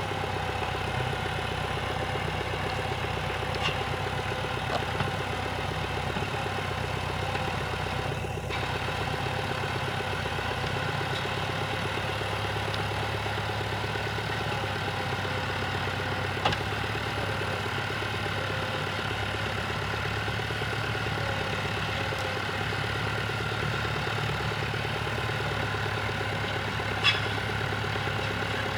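Tractor engine running steadily at a constant speed, with a few brief sharp clicks.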